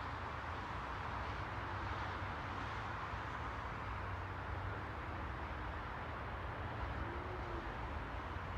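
Steady, unchanging rushing noise with a low rumble underneath, and a brief faint tone about seven seconds in.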